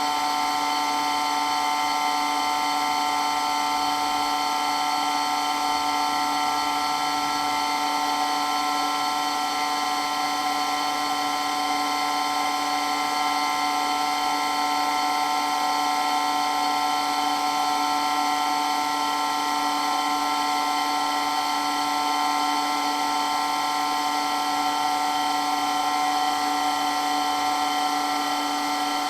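Water pump running steadily with a constant whine made of several steady tones, its pitch and loudness unchanging throughout.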